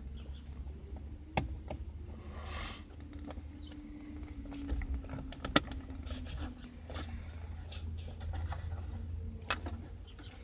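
Hand work on the steering wheel and column trim: scattered small clicks, rubbing and scraping of a screwdriver and plastic parts, with one longer scrape about two seconds in, over a steady low hum.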